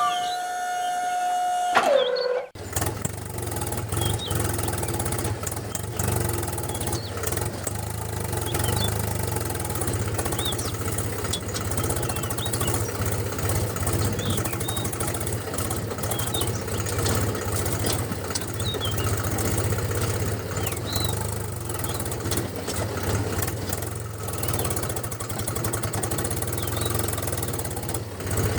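A steady held tone that glides down and cuts off about two seconds in, then a DIY mini tractor's small engine running steadily at idle.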